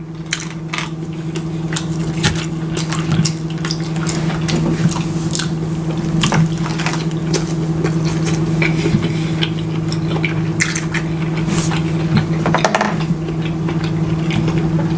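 Close-miked chewing and wet mouth sounds of someone eating rice and stewed meat, with frequent small clicks and smacks, over a steady low hum.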